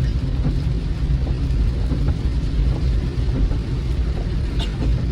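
Steady low road rumble of a car driving, heard from inside the cabin, with a brief faint tick near the end.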